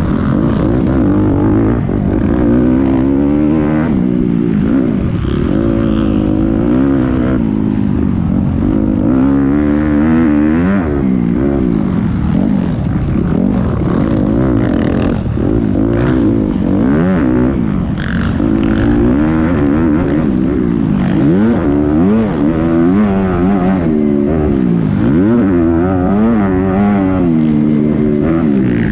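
Several motocross bikes racing at once, their engines revving up and falling off again in overlapping waves as riders work the throttle through the track.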